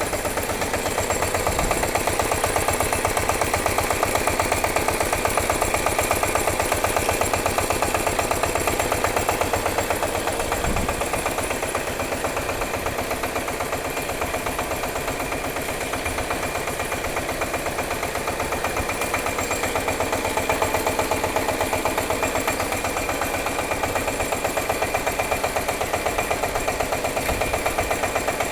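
Engine running steadily after an electric-starter start, with a rapid, even firing beat.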